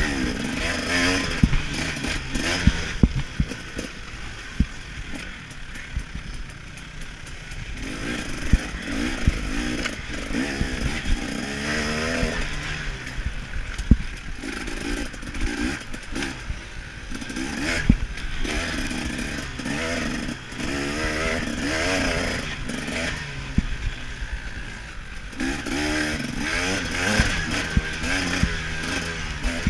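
KTM 300 XC-W two-stroke dirt bike engine revving up and falling back again and again under racing throttle, with sharp knocks and clatter from the bike throughout.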